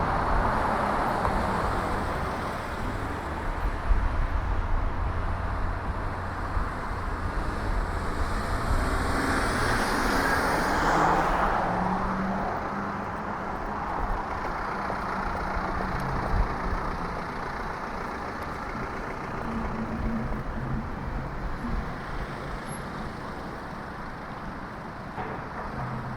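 Street traffic heard from a bicycle: motor vehicles running along the road, with one passing close about ten seconds in, its noise swelling and then fading away.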